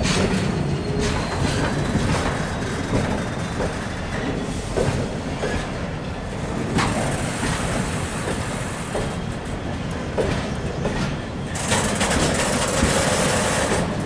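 Freight train of hooded wagons rolling past close by, wheels clattering over the rail joints in an uneven rhythm over a steady rumble. A faint high whine slides down and fades in the first few seconds.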